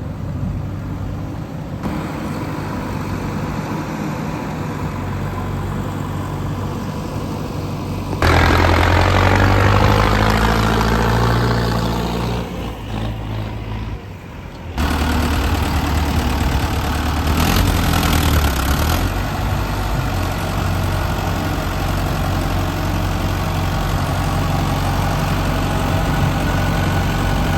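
Heavy diesel engine working during earth digging, its revs rising and falling. The sound jumps abruptly louder about eight seconds in, and again about halfway through.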